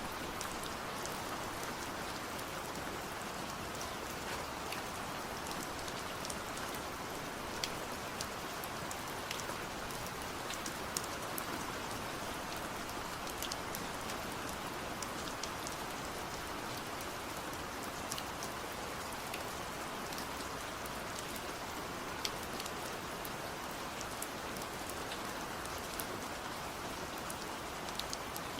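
Steady rain falling, a constant hiss with scattered sharp ticks of individual drops striking a surface.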